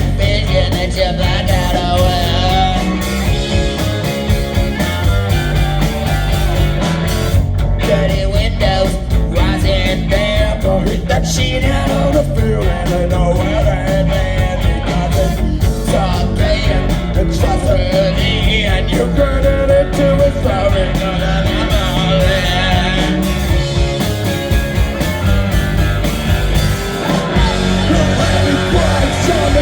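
Rock band playing loud psychedelic garage rock live.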